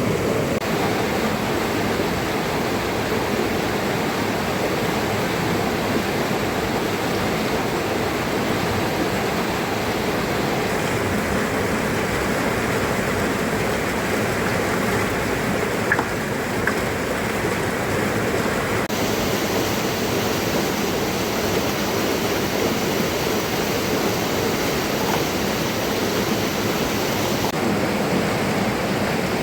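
Steady rushing of water, a dense even hiss that shifts in character at a few abrupt cuts, with a couple of faint clicks about sixteen seconds in.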